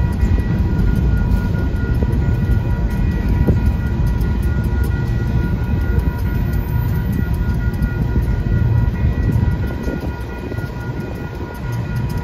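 Freight train's open-top hopper cars rolling through a grade crossing: a steady rumble of steel wheels on rail, with a steady high ringing tone over it. The rumble eases slightly about ten seconds in.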